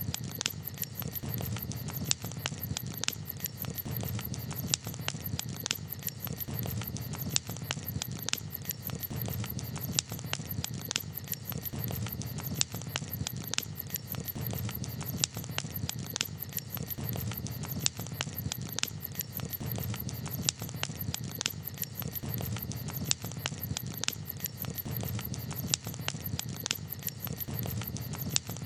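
Campfire crackling, with frequent sharp irregular pops over a low steady rumble.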